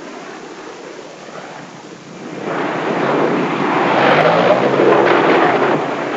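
A descending aircraft making a rushing roar that swells about two seconds in and stays loud.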